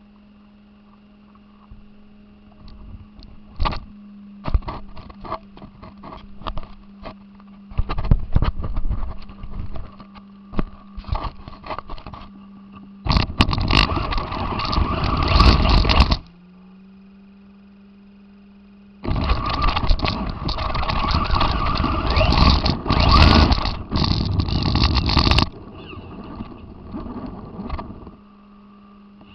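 RC car driving in two loud bursts of a few seconds each, its motor and tyres on rough ground, with scattered crackles before them and a steady electrical hum underneath.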